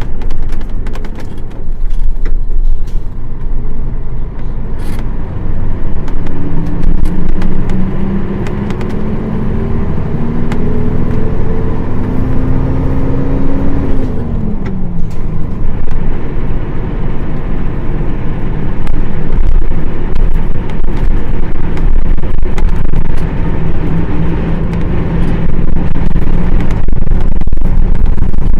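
Nissan Diesel PF6 six-cylinder diesel bus engine pulling under acceleration, its pitch rising steadily for several seconds, then dropping sharply about halfway through at a gear change before it pulls on again, with scattered rattles over the drone.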